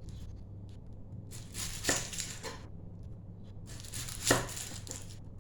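A kitchen knife cuts through onion on a cutting board: two sharp chops about two and a half seconds apart, each with a short scrape of the blade. A steady low hum runs underneath.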